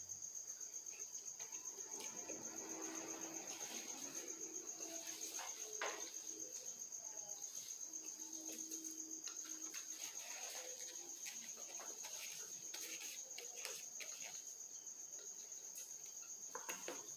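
Faint chewing and mouth sounds of a person eating a sandwich, over a steady, high-pitched, pulsing insect trill.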